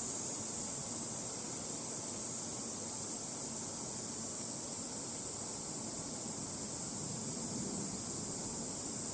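Steady high-pitched insect chorus holding one even shrill note, over an even low outdoor background noise, with no thunderclap.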